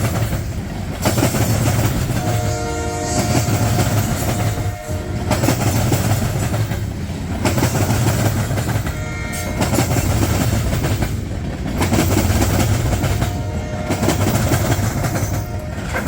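Freight train rolling by close at hand, its wheels clacking over the rail joints, with a locomotive horn sounding three times: a long blast a few seconds in, then two shorter ones.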